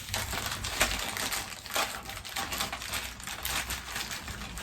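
Packaging being pulled and handled by hand: irregular crinkles, ticks and small clicks of tape and wrapping coming off a vacuum wand.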